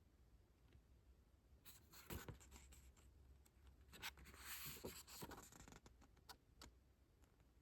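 Faint rustling of paper and plastic album contents being handled, with a few light clicks and taps.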